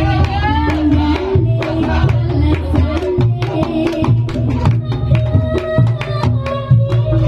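Reog Ponorogo gamelan music: hand drums beat a steady rhythm under ringing pitched gong tones and a wavering melody line.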